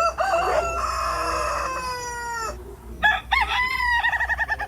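Rooster crowing: one long call of about two and a half seconds that falls in pitch at the end, followed by quick clucking.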